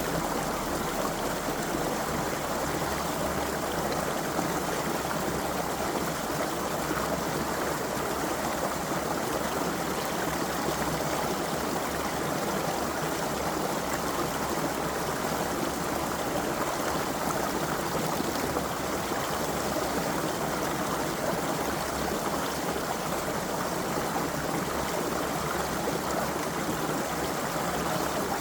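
A small stream running over rocks, a steady babbling rush of water.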